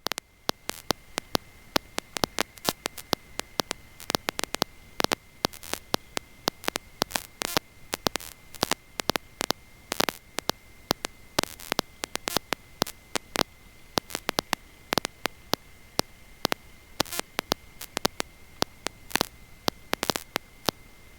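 Electrical static on an intercom-type audio line: irregular crackling clicks over a steady high-pitched whine, with no engine or wind noise coming through.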